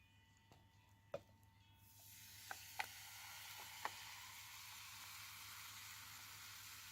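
Faint sizzling of food cooking on a small tabletop fire pit. The sizzling starts about two seconds in, just after a sharp click, and a few small pops follow.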